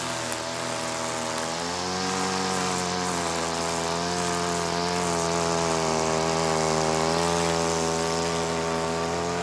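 Hedge trimmer motor running steadily, its pitch wavering slightly up and down with the cutter load.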